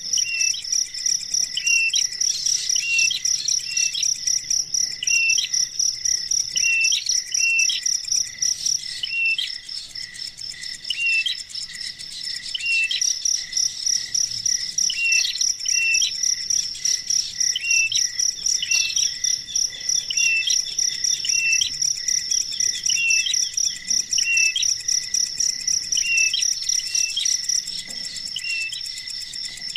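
Insects trilling steadily in a continuous high, finely pulsed chorus, which fades for a few seconds about nine seconds in. Short chirps repeat about once a second throughout.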